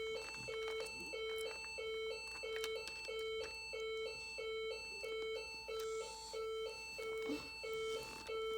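A simple electronic jingle: a low beeping note repeating about three times a second under a plinking higher tune that loops, with a few faint clicks of handling.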